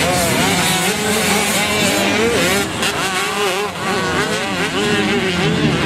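Several motocross motorcycles racing together, their engines revving up and down in overlapping, continually changing pitches.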